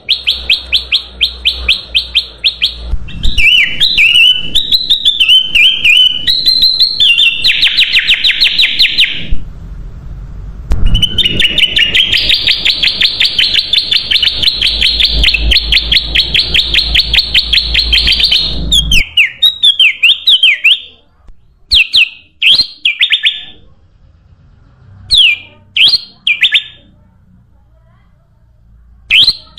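Kutilang emas bulbul calling: fast, loud chattering runs and warbling phrases, the longest chatter lasting from about 11 to 19 seconds in. After that come short, separate calls that fall in pitch, with gaps between them. A low rumble sits under the loudest chattering.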